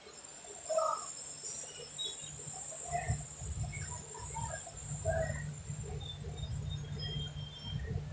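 Railway platform background: scattered short chirps over a faint hiss, with a low steady rumble setting in about three seconds in.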